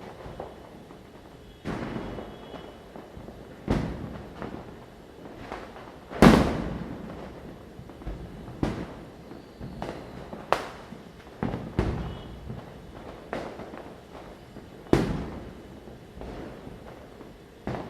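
Firecrackers bursting at irregular intervals, a dozen or so sharp bangs near and far, each with a short echoing tail. The loudest bang comes about six seconds in.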